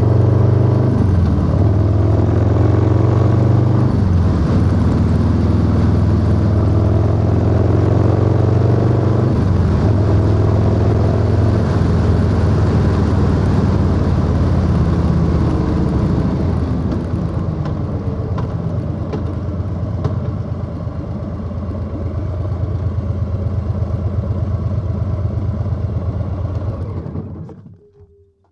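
Harley-Davidson Low Rider S motorcycle's Milwaukee-Eight V-twin running under way through a 2-into-1 exhaust, with steps in pitch near 1, 4 and 9 seconds in. It eases off around 17 seconds in, pulls again around 22 seconds in, and cuts off abruptly near the end.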